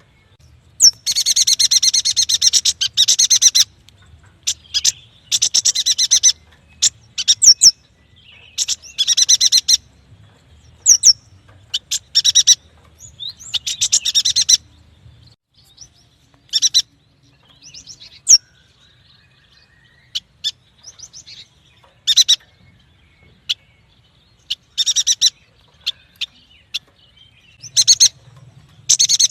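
Yuhina singing: loud bursts of rapid, high-pitched chattering trills, each one to three seconds long, with single sharp rising notes and short pauses between them.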